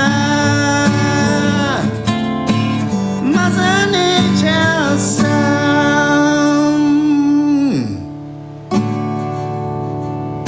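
A man singing to his own acoustic guitar. He holds a long note that slides down and stops about eight seconds in, and then the guitar strums on alone.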